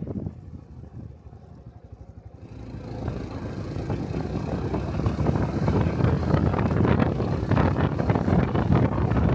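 Honda Cub 125 cc single-cylinder motorcycle engine ticking over quietly, then pulling away about two and a half seconds in, with engine and wind noise building as it gathers speed.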